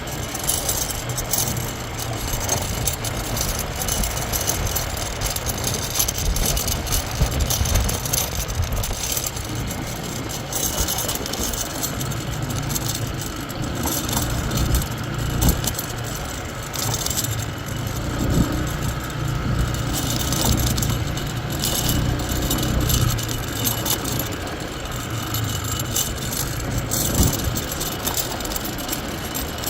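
Motorbikes being ridden, engines running steadily under a constant hiss.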